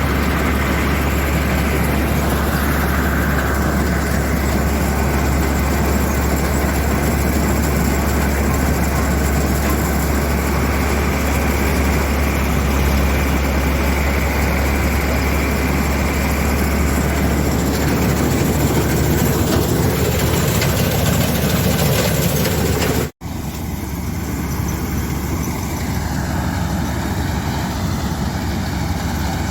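Combine harvester's diesel engine running steadily with a deep hum. Near the end the sound cuts out for an instant and comes back a little quieter.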